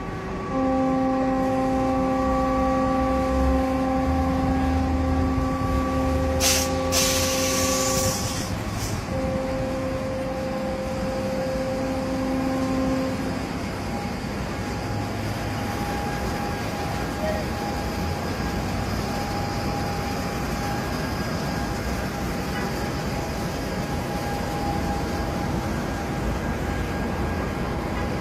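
A long, steady horn blast lasting several seconds, then a second, shorter blast, over a low rumble, with a brief loud hiss near the end of the first blast. After that only a steady rumbling noise remains.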